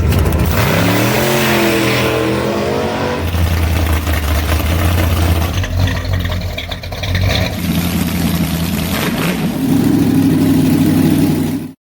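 Car engine revving up over the first few seconds, then running steadily with changes in speed, cut off suddenly near the end.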